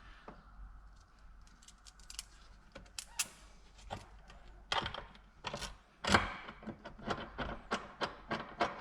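Hand tools and metal parts clinking and knocking during car interior reassembly: scattered clicks, a burst of louder knocks past the middle, then a regular run of clicks about three a second.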